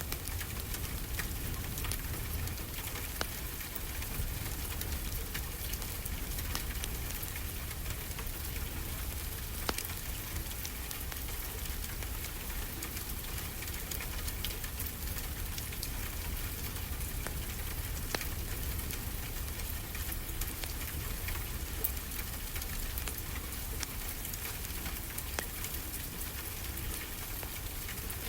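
Wood fire crackling with frequent small pops, layered over a steady low rush of ocean waves.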